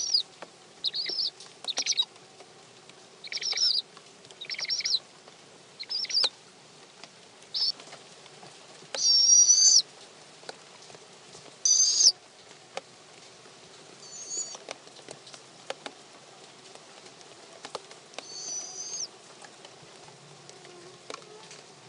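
High-pitched squealing calls from barred owls in a nest box: short calls about once a second, then a few longer, louder ones, with small scratches and taps in between.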